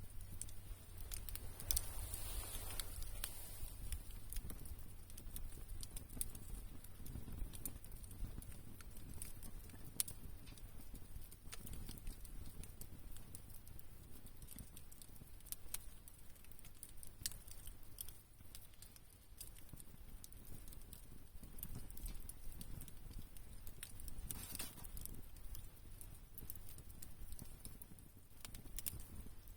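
Wood campfire crackling, with sharp pops at irregular moments over a low steady hum.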